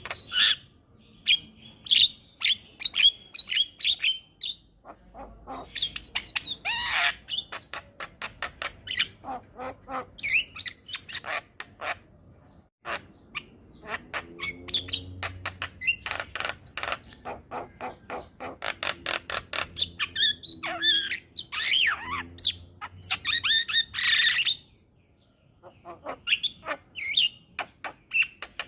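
Javan mynas (jalak kebo) chattering: a fast run of harsh clicks and chips mixed with whistled notes, with two short pauses, about halfway through and near the end.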